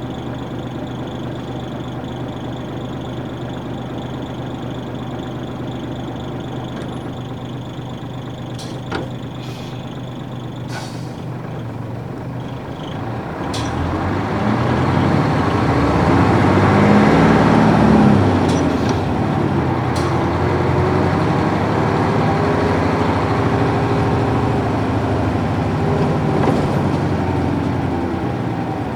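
Nissan Diesel UA440 bus with its PF6 diesel engine idling steadily, with a few short clicks and a brief hiss, then pulling away: the engine note rises as it accelerates in a low gear, drops at a gear change about 18 seconds in, and carries on under load.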